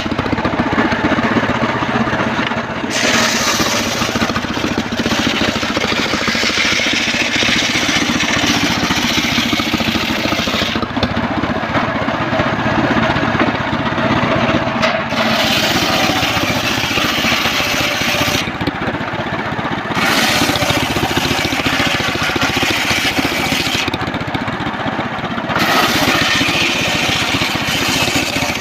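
Engine-driven homemade circular sawmill running steadily while its blade cuts trembesi timber, a bright hissing rasp rising over the engine during each cut of several seconds and dropping away briefly between cuts, about four times.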